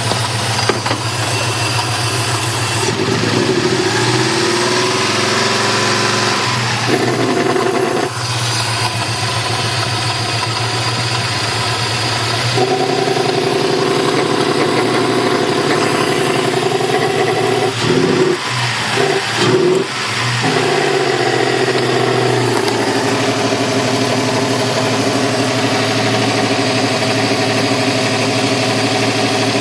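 Toyota 3VZ-E 3.0 L V6 running at idle, with a loud, throaty exhaust note that changes character several times. The noise is exhaust pulsing through the EGR/PAIR valve into an air intake box with no resonator, made worse by two shorted spark plugs.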